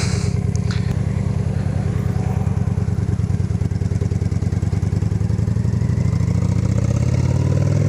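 Honda Shadow Aero's V-twin engine running as the motorcycle is ridden, its note climbing in pitch near the end as it speeds up.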